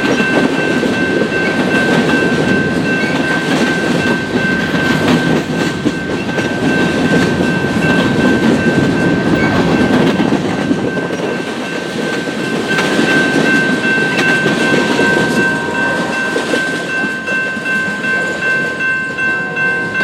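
Train rolling past at close range, its wheels clattering over the rail joints, with a steady high-pitched tone over the rumble. Near the end the clatter settles into an even beat of about two knocks a second.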